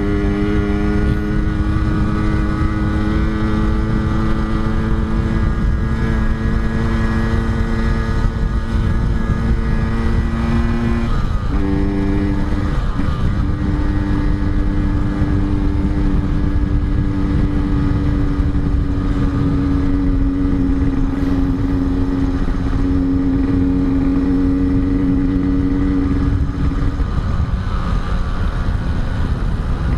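Yamaha RX-King two-stroke motorcycle engine running at a steady cruising pitch over a steady low rush of noise. About eleven seconds in its note breaks briefly, then it settles again at a slightly different pitch.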